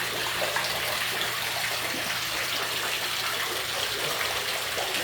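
Steady running and splashing of floodwater pouring into a flooded basement, over a faint steady low hum.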